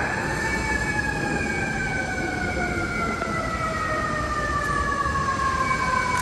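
Siren winding down, one pitched wail falling slowly and steadily, over the constant noise of city traffic.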